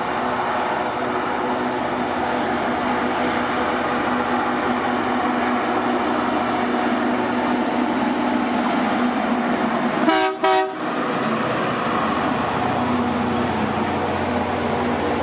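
A train running past with a steady rumble and hum. About ten seconds in, the train horn gives two brief toots.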